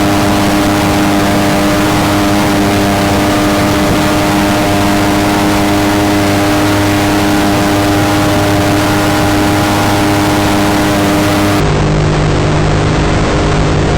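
Mini jet boat's engine running steadily at speed, a constant hum with a noisy rush over it. About twelve seconds in the sound changes abruptly and turns duller, the hum shifting in pitch, for a few seconds.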